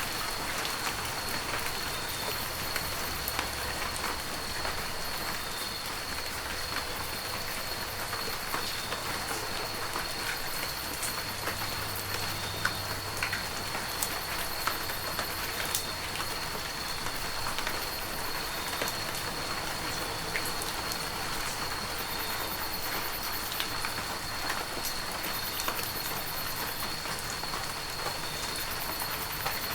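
Heavy rain falling steadily: a continuous hiss with many sharp drop hits scattered through it.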